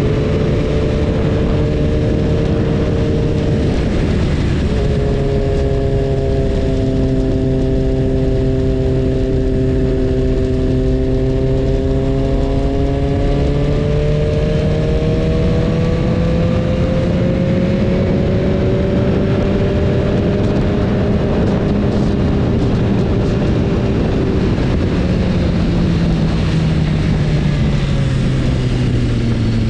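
BMW S1000RR inline-four engine running under way, its note slowly rising and falling, with a brief break in the note about four seconds in, over a steady rush of wind and road noise.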